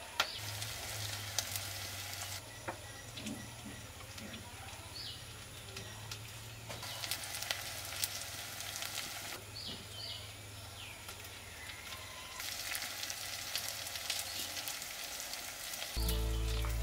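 Onions, chillies and spices frying in hot oil in a clay pot over a wood fire, a sizzling hiss that swells for a few seconds at a time, with quieter gaps between.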